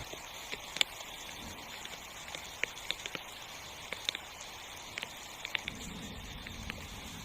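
Rain falling on a tent: a steady hiss with irregular sharp taps of single drops striking the fabric.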